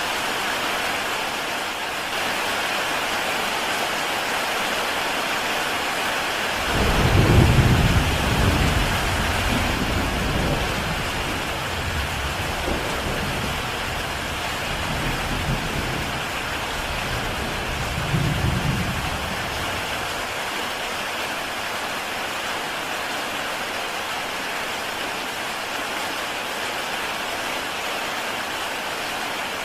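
Heavy rain falling steadily on a tile roof. About a quarter of the way in, a deep roll of thunder rumbles in, loudest at first, swells once more briefly, then fades away about two-thirds through.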